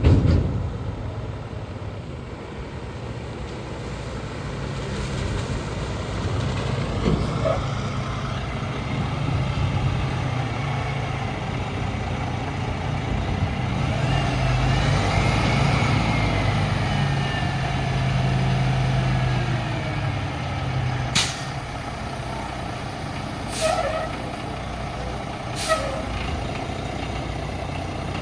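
A 2022 Peterbilt 567 tri-axle dump truck's diesel engine running with a steady low hum, getting louder in the middle with a faint whine that rises and falls. Near the end come three short, sharp bursts of air, a couple of seconds apart.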